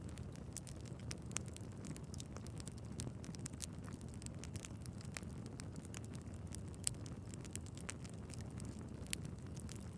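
Log fire crackling: a steady low rumble of flames under frequent sharp pops and snaps, the loudest pop about seven seconds in and another near nine seconds.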